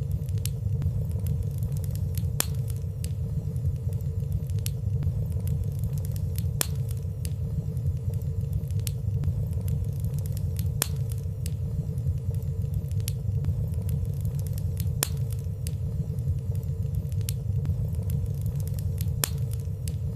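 Wood fire burning in a fireplace: a steady low rumble of flames with light, scattered crackles about every second or two.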